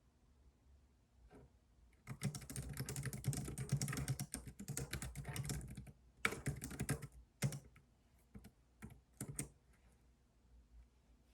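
Typing on a computer keyboard. A fast, continuous run of keystrokes starts about two seconds in, followed by a shorter burst and then a few scattered key presses, stopping before the end.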